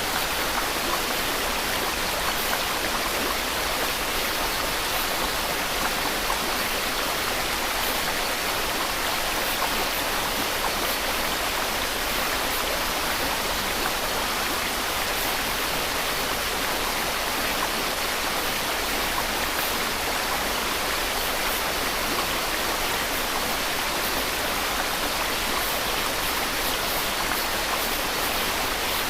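Steady white-noise hiss, unchanging throughout, spread evenly over the middle and upper range with little bass.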